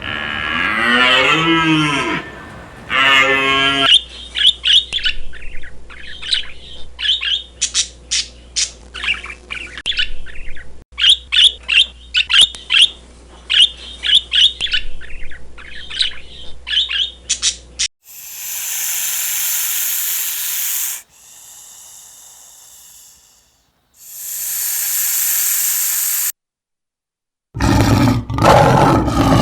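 A run of separate animal sounds: a cow lowing at the start, then a long stretch of rapid high bird chirps. These give way to two long hisses with a short drop-out, and near the end a deep roar begins.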